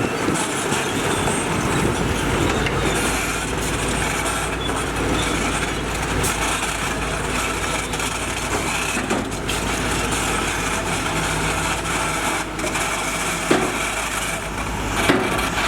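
Heavy diesel construction machinery running steadily under work, with a few sharp knocks near the end.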